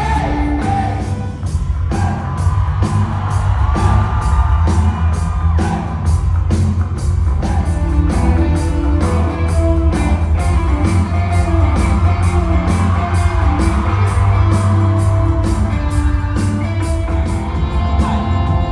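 Live band playing loud rock music with a steady drumbeat, heavy bass and singing, amplified in a large hall, with whoops from the crowd.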